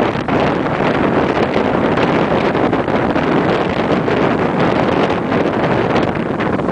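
Strong wind blowing across the microphone, a loud, steady rush of noise.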